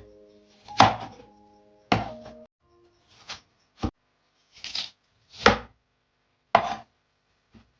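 A knife chopping on a cutting board: about seven separate chops at uneven spacing, with soft background music under the first few.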